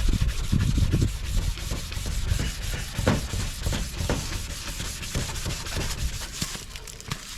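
Hand wet-sanding of a plastic headlight lens: steady rubbing, scraping strokes, heaviest in the first second or so and easing off toward the end.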